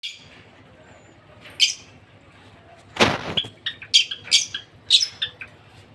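Small pet parrots chirping: a few high chirps, then a quick run of sharp chirps in the second half. About three seconds in, a short noisy burst comes just before that run.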